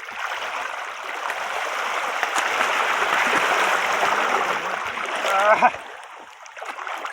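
Rushing, splashing water that swells over the first few seconds and cuts off abruptly near the end, with a short shout over it just before it stops.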